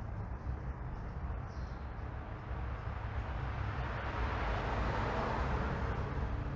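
Neighbourhood street ambience: a steady low traffic rumble, with a passing car's tyre noise swelling to a peak about five seconds in and then easing off.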